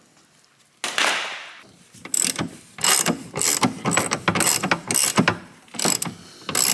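Hand ratchet with a 10 mm socket on an extension clicking in short runs of strokes, hand-starting the bolt of a new fuel tank strap before the impact gun is used. A single rasping noise sounds about a second in.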